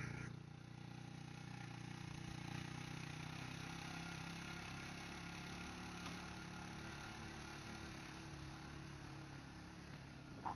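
Faint, steady engine hum, as of an engine idling.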